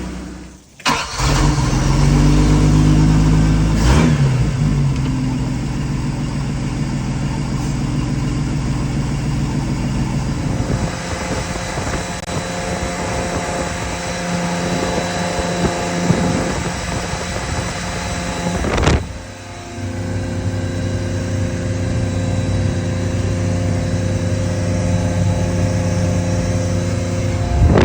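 Volvo Penta marine engine running, revved up briefly near the start and then held at a steady speed, with sudden breaks about a second in and again near the middle.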